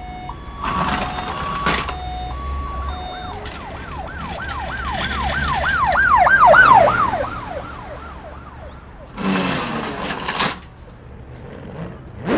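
Emergency vehicle siren: a two-tone hi-lo alternation, then a fast up-and-down wail that swells louder and fades away as if passing by. A loud, noisy burst follows about nine seconds in.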